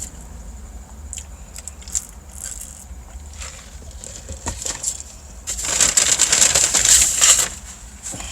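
Biting and chewing crunchy food close to the microphone: scattered small clicks and smacks, then a loud, dense crunching for about two seconds past the middle.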